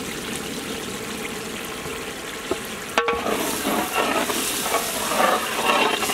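Onion-tomato masala frying in oil in a large metal pot, a steady sizzle. About three seconds in, a metal ladle starts stirring through the thick masala, scraping and clattering against the pot over the sizzle.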